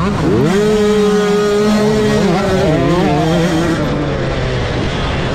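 Motocross bikes racing on the track. One bike's engine revs up sharply in the first half second, holds high, then wavers and drops off around three seconds in, over the steady drone of other bikes.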